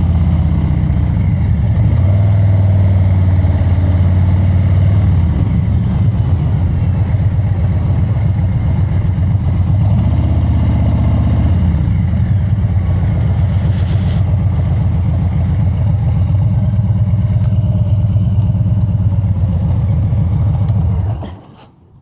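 Harley-Davidson Street Bob 114's Milwaukee-Eight 114 V-twin running through a new aftermarket exhaust, a loud, deep, steady note that rises briefly in pitch twice. It cuts off suddenly about a second before the end.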